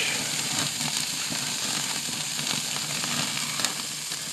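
Food sizzling on a grill, a steady hiss with light crackling.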